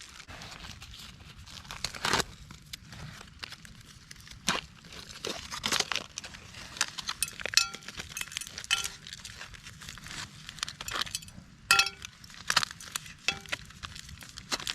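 Foil-and-plastic packaging of trioxane fuel bars crinkling and tearing as it is handled and opened, with scattered crackles and a few light metallic clinks.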